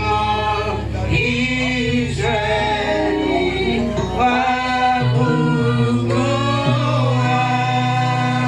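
Church choir singing a gospel song over a steady bass accompaniment.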